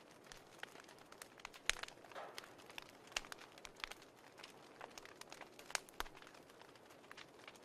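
Quiet fireplace crackling: irregular sharp pops and snaps over a soft hiss.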